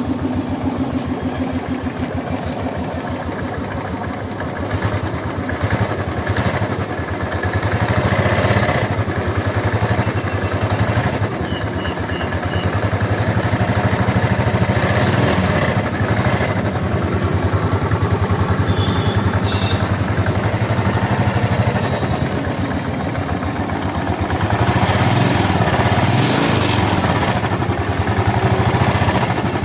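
Royal Enfield Classic 350's single-cylinder engine running at idle after a crank rebuild, with the throttle blipped a few times. It runs without the crank (connecting-rod) knock it had before the rebuild.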